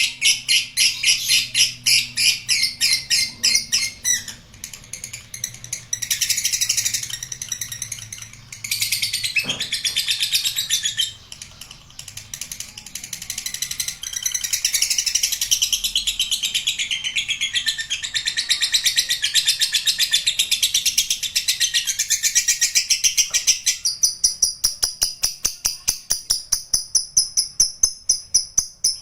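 Lovebird singing a long, unbroken ngekek: shrill, rapid chattering that runs without a pause, in regular pulses several times a second at first, turning denser and busier for most of the middle, then back to fast regular pulses near the end.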